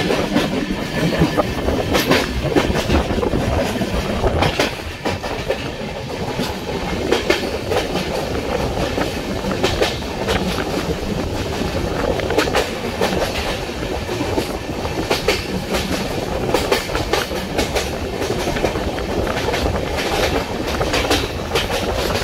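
Indian Railways express train running along the track, a steady rumble of the coach with repeated sharp clicks of the wheels passing over rail joints.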